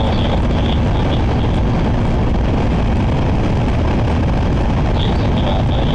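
Shinkansen bullet train running at speed, heard from inside the passenger cabin: a steady, loud rumble and rush of noise.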